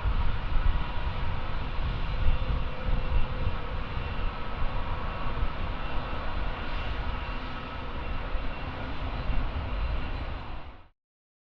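Jet airliner engines running loud and steady: a low rumble with a whine of steady tones above it, cut off abruptly near the end.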